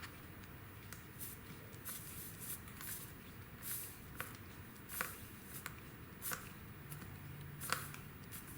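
A steel reamer being twisted into the puncture in a tubeless motorcycle tire to widen the hole for the plug: faint, irregular scraping and rubbing of the rasp against the rubber, about a dozen short scrapes.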